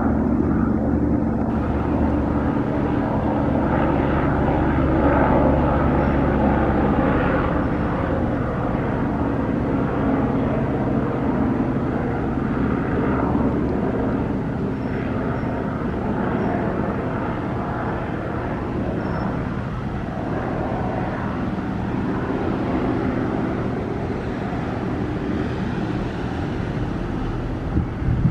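Airbus H125 single-engine turbine helicopter flying past, its main rotor and turbine making a steady low thrum, loudest in the first several seconds and a little fainter later on.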